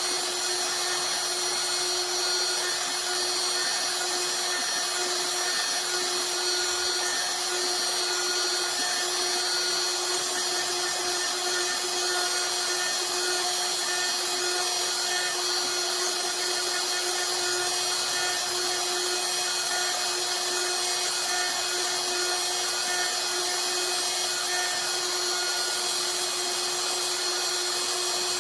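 Router spindle on a Bob's CNC machine running steadily with a high, even whine as it engraves a design into a wooden picture frame.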